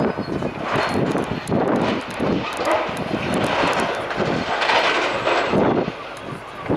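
Heavy demolition machinery working: an engine running under load with irregular surges and a clatter of crunching and falling debris.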